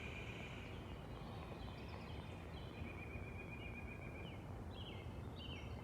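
Songbirds singing faintly in woodland, a scatter of short high whistled notes in brief stepped phrases, over the steady rush of a brook.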